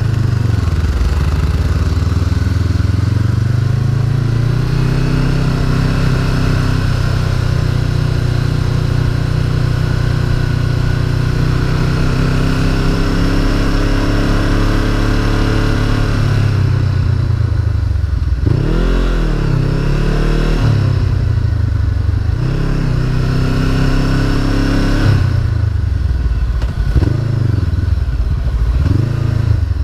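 Honda CB500F motorcycle's parallel-twin engine running under way at a steady pitch, then the revs drop and climb again a few times in the second half as the throttle is closed and reopened.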